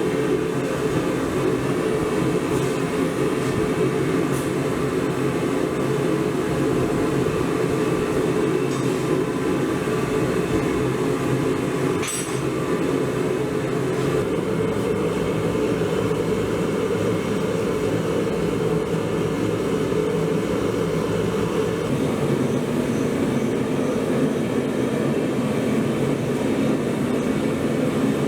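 Forging equipment running: a steady mechanical drone with several held tones, shifting slightly in pitch about halfway through and again near the end, with one sharp click about 12 seconds in.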